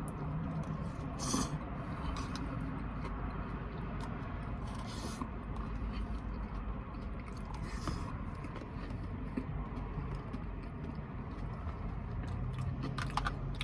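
A person chewing and biting into pizza tots, with a few short crunchy, smacking bursts over a steady low hum.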